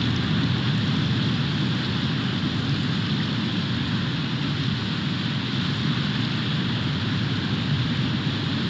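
Steady snowstorm noise on an outdoor microphone: wind and falling snow make an even rushing hiss over a low rumble, with no distinct strokes or calls.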